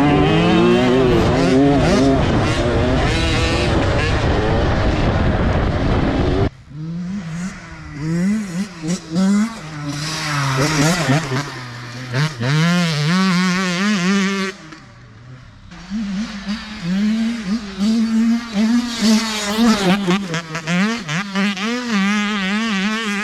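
Dirt bike engine revving, its pitch repeatedly rising and falling with the throttle as the rider keeps the revs up through a rough section. It is loud and close for about the first six seconds, then drops abruptly to a quieter, wavering engine note.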